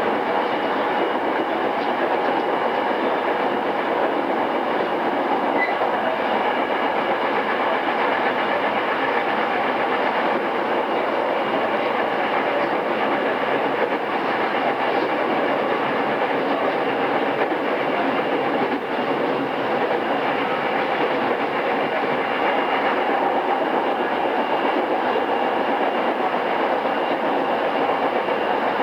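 Running sound heard inside a JR East E217 series commuter train's motor car (MoHa E217-2006), original pre-renewal type, as it travels steadily along the line. It comes through an old cassette tape recording.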